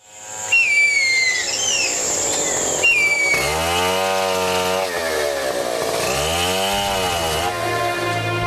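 High, falling whistled bird calls, then a chainsaw starts up about three seconds in and revs up and down twice. Steady music tones come in near the end.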